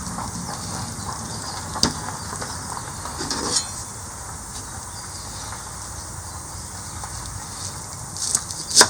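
Open wood campfire burning, a steady noise broken by a few sharp crackling pops, the loudest near the end.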